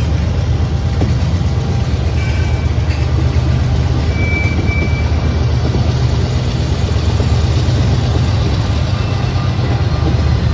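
Double-stack intermodal freight train of container well cars rolling past: a steady, loud rumble of wheels on rail, with two brief faint high squeals a few seconds in.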